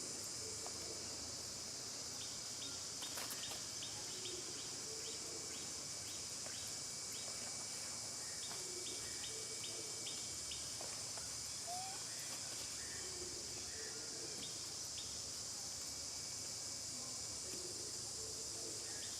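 Steady high-pitched drone of insects in tropical forest, with rows of faint quick chirping ticks over it.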